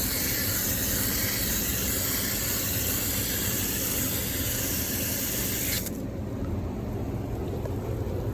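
Water spray rinsing foamed cleaner out of an air-conditioner condenser coil, a steady hiss that cuts off abruptly about six seconds in, leaving a low rumble.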